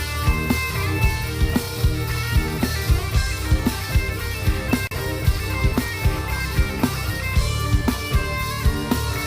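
Live rock band playing an instrumental passage: a drum kit keeps a steady beat under a heavy, sustained bass and keyboard and guitar chords, with no vocals.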